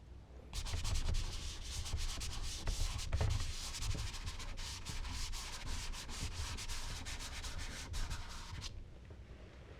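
Charcoal being worked over smooth Bristol paper: a dense run of quick rubbing strokes that starts about half a second in and stops near the end.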